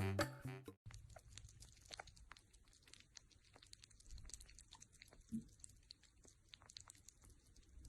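Music cuts off under a second in. Then come faint, irregular crunching clicks of an animal chewing food.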